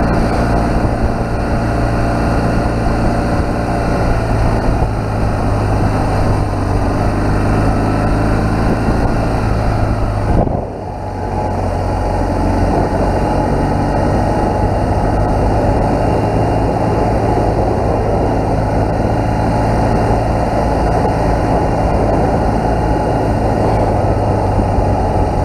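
BMW R1200GS boxer-twin engine running steadily under way, recorded on the bike, with the low tractor-like note its rider complains of. The engine note eases off briefly about ten seconds in, then picks up again.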